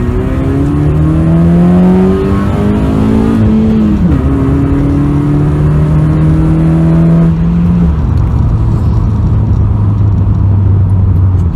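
Honda Civic 1.8 VTEC engine with an aftermarket exhaust accelerating, heard from inside the cabin. Engine pitch rises through one gear, drops with an upshift about four seconds in, then climbs again in the next gear. It settles to a steady lower drone as the throttle eases about eight seconds in.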